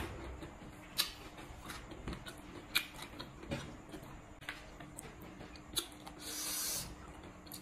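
Close-miked mouth sounds of someone chewing papaya salad: scattered wet smacks and sharp clicks, with a short hiss about six seconds in.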